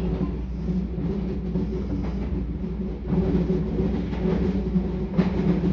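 Meitetsu 4000 series electric train running along the track, heard from just behind the driver's cab: a steady rumble with a sharp clack near the end.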